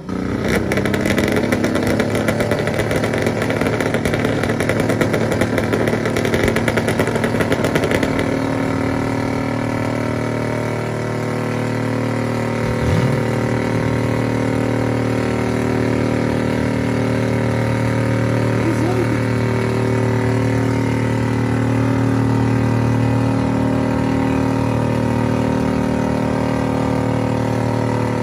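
Jeep engine revved hard for about the first eight seconds, then held at a steady speed for a long stretch, the kind of sustained revving the hosts fear will make it blow up.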